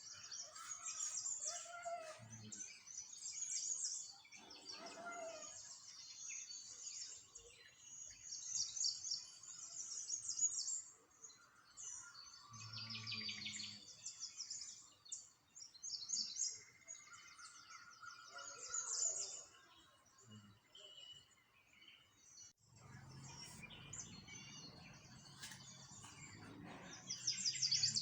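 Small songbirds chirping and twittering, many high trills overlapping and repeating throughout. A faint low rumble sits underneath in the last few seconds.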